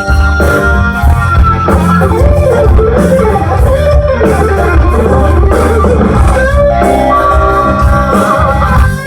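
Live rock music with no singing: an electric guitar plays a lead line of bent notes with wide vibrato over sustained bass.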